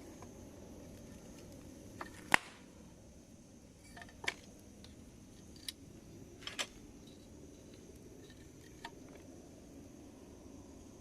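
Campfire crackling: a steady low hiss of burning with about six sharp pops scattered through, the loudest about two seconds in.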